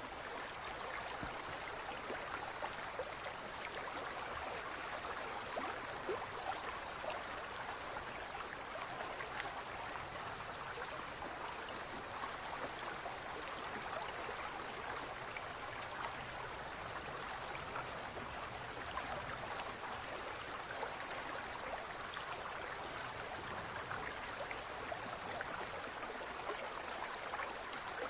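Running water with a steady trickling, splashing flow, full of small crackles and no change in level throughout.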